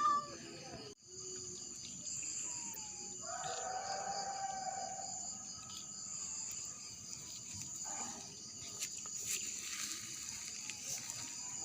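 Steady high-pitched insect chirring in a rural outdoor ambience. About three seconds in, a pitched call of around two seconds rises above it.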